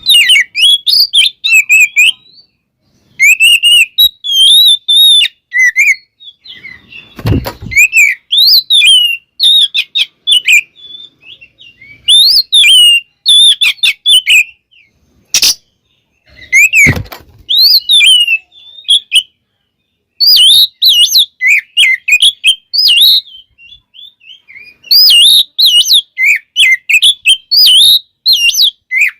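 Oriental magpie-robin (kacer) singing in rich, fast runs of varied whistles, trills and chirps, delivered in bursts separated by brief pauses. Two sharp low thumps stand out, about 7 and 17 seconds in.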